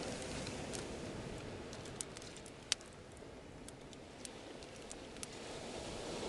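Wood bonfire crackling, with scattered sharp pops, the loudest about two and a half seconds in, over a steady rushing background.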